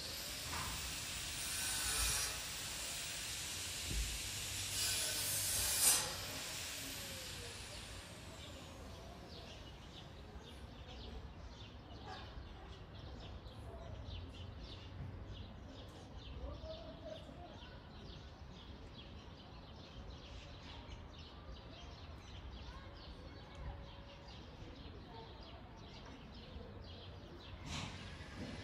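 Outdoor ambience: a loud rushing noise for about the first six seconds, then quieter, with birds chirping and calling through it.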